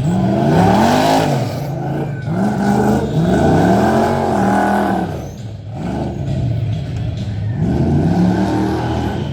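A 1987 Ford Ranger's swapped-in big Chevy engine revving hard, rising and falling in pitch several times as the truck works through an off-road obstacle course.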